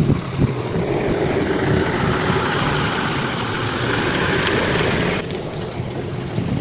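Bulldozer's diesel engine running steadily. A rushing hiss sits on top of it and cuts off suddenly about five seconds in.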